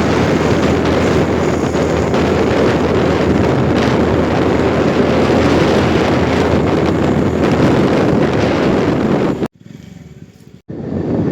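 Vehicle on the move: steady engine and road noise mixed with wind on the microphone. It cuts off abruptly near the end to something much quieter for about a second, then comes back.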